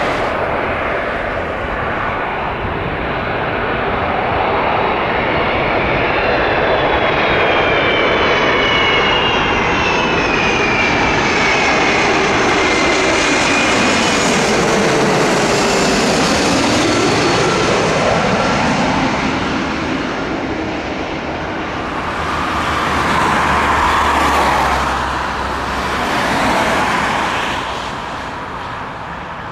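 Airbus A330-300 airliner's jet engines passing on its landing approach: a loud steady rush with whining tones that slide down in pitch as it goes by about halfway through. Two swells of rumble follow near the end, then the sound fades.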